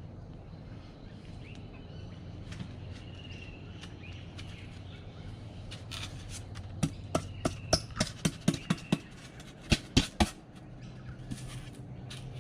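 A run of about a dozen sharp taps and knocks in quick succession in the second half, from the wooden hive parts being handled, over faint bird chirps.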